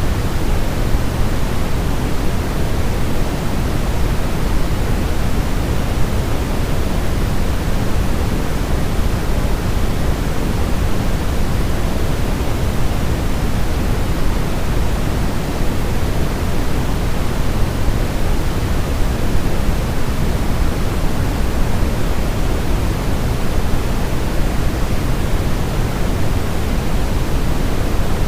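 Steady, unchanging white noise for baby sleep, heavier in the low end than in the highs, so it sounds like a deep hiss with a rumble underneath. It is meant to imitate the sound of the womb and mask distracting noises.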